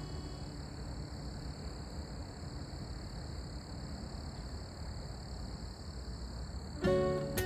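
Steady low noise with faint high steady tones, after background music fades out in the first moment; acoustic guitar music starts near the end.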